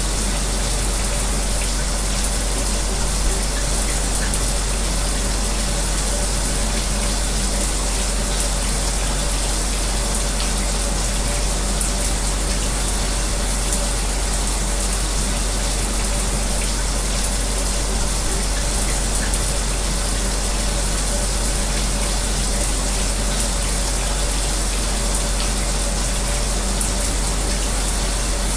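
A running shower's spray and an electric fan, blended into one steady noise with a faint low hum and small splashing ticks.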